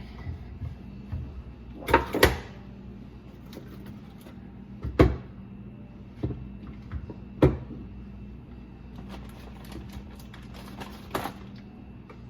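Scattered knocks and clunks, the loudest two about two seconds in, from a garbage disposal unit and its fittings being handled and refitted under a kitchen sink, over a faint steady hum.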